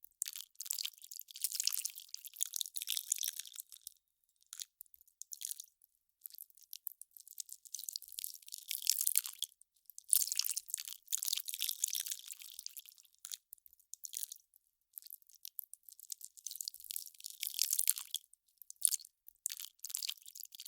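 Melting ice crackling and crunching in dense, crisp, high-pitched spells of a few seconds each, separated by short pauses.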